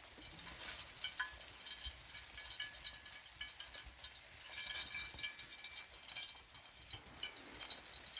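Potato kuku frying in oil in a pan: a steady sizzle full of small pops and crackles, swelling louder about half a second in and again around the middle.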